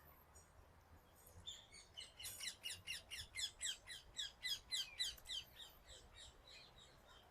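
A small songbird singing a quick run of short, high, falling notes, about four or five a second, that slows and thins out toward the end.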